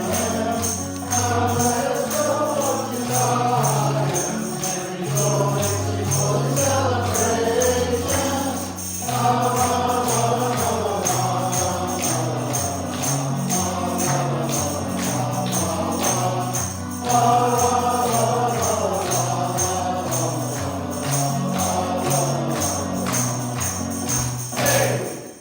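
Worship song with a group of voices singing over a stepping bass line, and tambourines jingling on the beat. The music ends just before the close.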